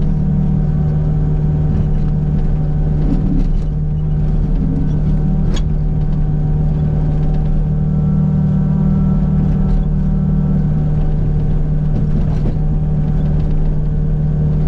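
Kubota U55 mini excavator's diesel engine running at a steady speed, with no hammer blows.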